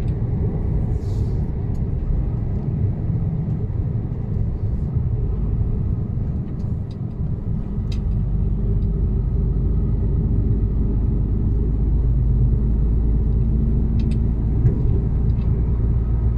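Mercedes Actros truck running on the road, a steady low engine and road rumble that grows deeper and stronger about halfway through, with a few light clicks.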